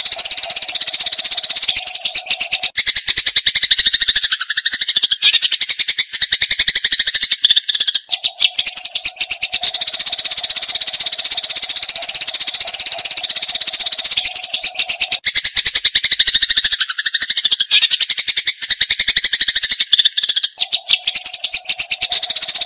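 Eurasian tree sparrows giving their fighting call: a continuous, very fast stream of harsh, high chattering chirps. A low steady tone comes and goes under it.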